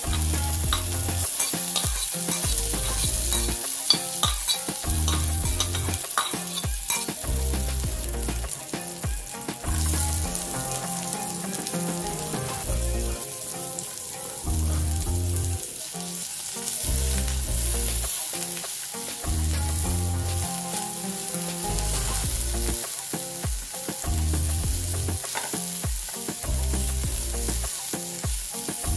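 Chopped garlic and green chillies sizzling in hot oil in a nonstick frying pan. Chopped onion is then added and stirred in with a silicone spatula, which scrapes across the pan as the frying goes on.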